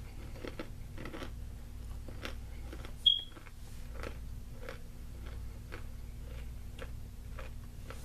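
Crunchy granola with almond and cashew pieces being chewed close to the microphone, a crunch about twice a second. About three seconds in comes one sharp, short click with a brief high ring, the loudest sound.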